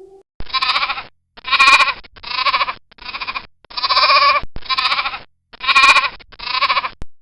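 Goat bleating, eight loud calls in quick succession, each under a second, with abrupt starts and stops.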